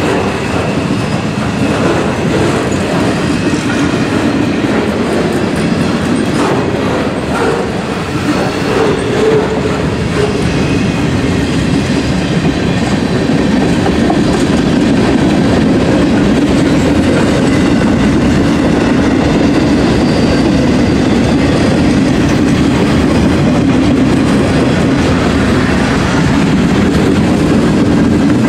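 Freight cars of a manifest train rolling past close by: steel wheels on the rails make a loud, steady rolling noise that grows a little louder about halfway through.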